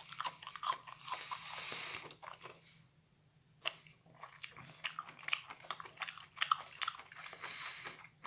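A person chewing microwaved meadow mushrooms close to the microphone: a run of short wet clicks and bites, pausing for a moment about three seconds in before the chewing resumes.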